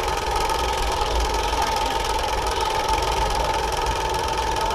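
Motorized bicycle's motor running steadily at cruising speed, a continuous high whine, with wind rumbling on the microphone.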